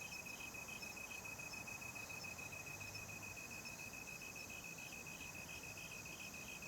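Crickets chirping at night: a steady, rapid high-pitched trill with a second, slightly higher chirp pulsing about three times a second.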